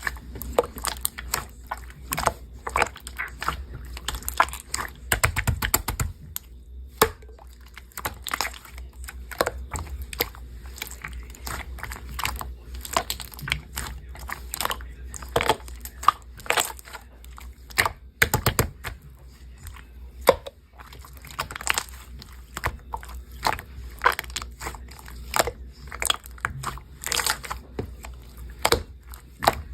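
Clear slime being squeezed and pressed by hand, giving a string of irregular sticky clicks and small pops.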